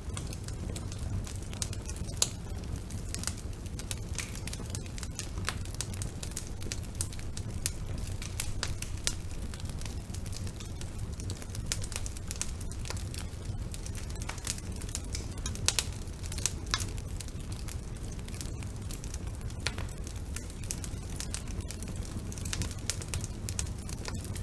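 Wood fire burning in a fireplace: a steady low rumble of the flames with irregular crackles and occasional louder pops of the burning logs.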